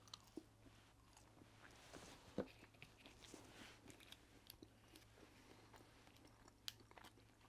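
Faint close-up chewing of McDonald's french fries, with soft clicks and crackles; a few sharper ticks near the end come from handling a small plastic dipping-sauce cup.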